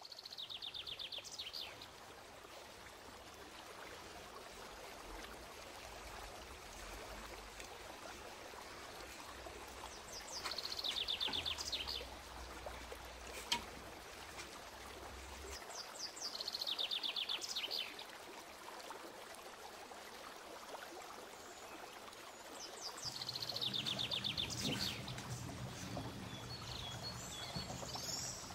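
A small songbird singing a short, rapid run of notes that falls slightly in pitch, four times, several seconds apart, over steady outdoor background noise.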